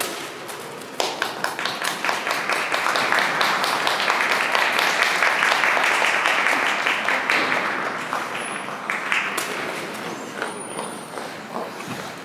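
Audience applauding, starting sharply about a second in, swelling to a peak in the middle and gradually dying away.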